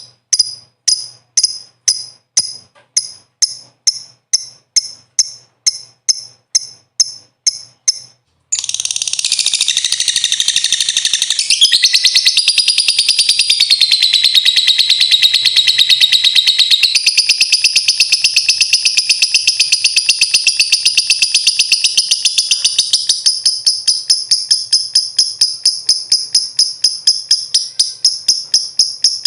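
Lovebird calling: a string of sharp, high, evenly spaced chirps, a little over two a second, then from about eight seconds in a long unbroken rapid chattering trill, the 'ngekek' song, that shifts in pitch a few times.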